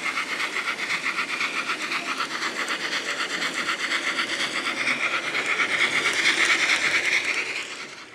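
Model train running on the layout, with a fast, even rhythmic beat and hiss. It grows louder, then fades out near the end.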